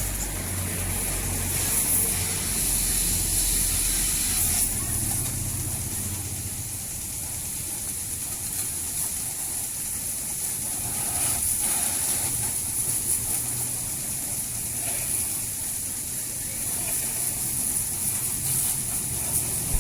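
Water spraying steadily onto a motorcycle during a wash, a continuous hiss with a low hum underneath.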